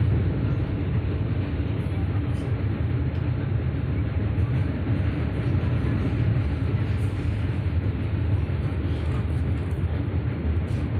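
Steady low rumble of a passenger train running along the track, heard from the train window.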